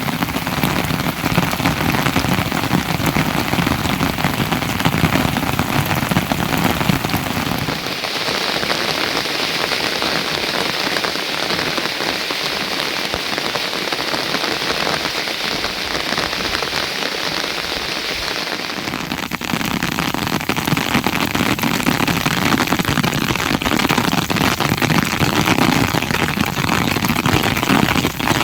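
Steady rain falling with a dense patter. About a third of the way in it turns to a thinner, hissier rain with less low body, and about two-thirds in the fuller, heavier patter returns.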